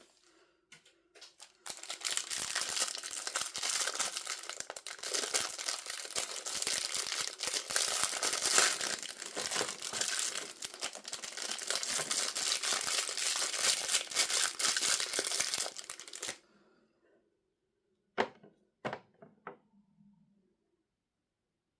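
Packaging crinkling and tearing as it is opened by hand: a dense crackle for about fourteen seconds that stops abruptly, followed a couple of seconds later by a few sharp taps.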